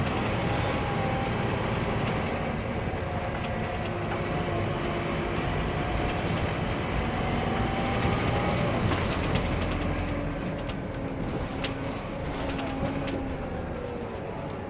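Scania K230UB Wright Solar bus under way: its engine running steadily with a thin whine from the drivetrain that drifts up and down in pitch, and bodywork rattling in short clicks, most noticeably past the middle. The engine eases off toward the end.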